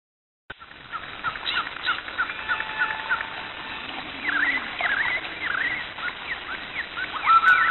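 Several birds chirping and calling, with many short rising and falling notes overlapping. It starts about half a second in, and from about seven seconds in a run of louder, repeated sweeping notes takes over.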